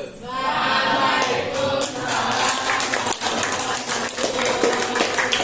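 Audience applauding loudly, with a group of voices calling out together as it starts.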